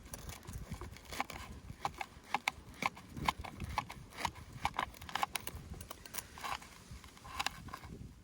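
An irregular series of light knocks and clacks, several a second, some with a short ringing, over a low background rumble.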